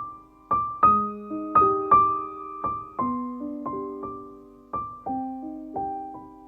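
Slow, gentle solo piano music: a melody of single struck notes, each fading away, over held lower notes.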